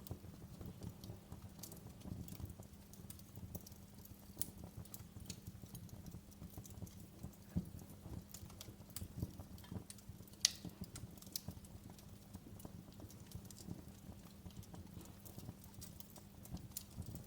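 Wood fire crackling in a fireplace: irregular small pops and snaps, with one louder pop about ten seconds in, over a steady low hum.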